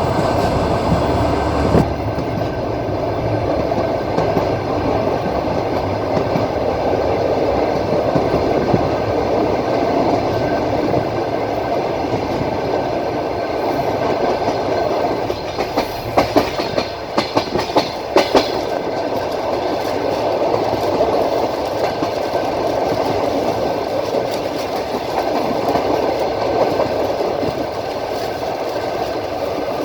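Passenger train running along the track: a steady rumble of wheels on rail and carriage noise. About halfway through comes a quick run of sharp wheel clicks, the clickety-clack of wheels over rail joints.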